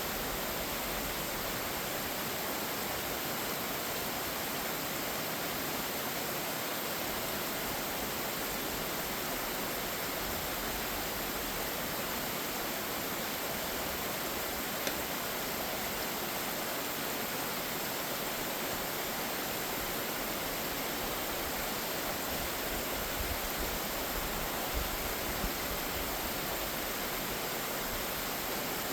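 Waterfall: falling water making a steady, even hiss.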